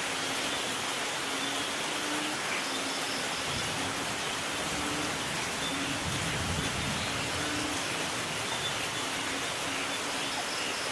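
Steady rain hissing, with a low rumble of distant thunder that swells and fades about halfway through.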